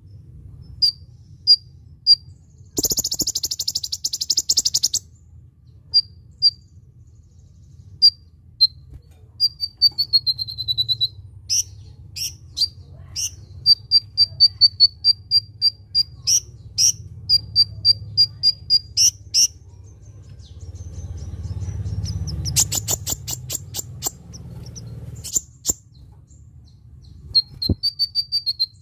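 Kolibri ninja sunbird singing: sharp high chips and short whistled notes, a quick falling trill, and a steady run of notes about three a second, broken by dense high buzzing rattles, over a faint low hum.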